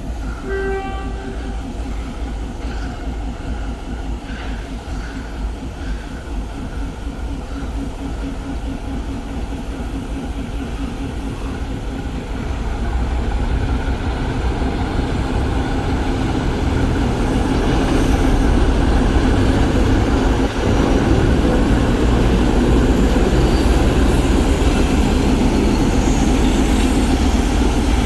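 ChME3 diesel-electric shunting locomotive running, the tail of a horn blast fading in the first moment, then a steady diesel engine rumble that grows louder about 12 s in and again about 18 s in as the locomotive comes closer.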